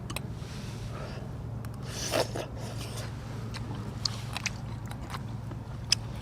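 Close-up eating sounds: chewing a mouthful of chewy sujebi dough, with a few short noisy smears and several sharp light clicks such as a spoon or chopsticks on the bowl.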